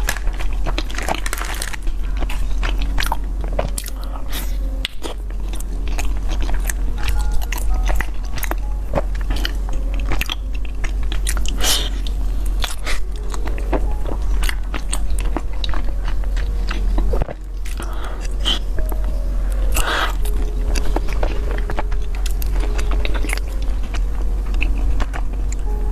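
Close-miked biting and chewing of food, with many irregular crunchy crackles, over a steady low hum.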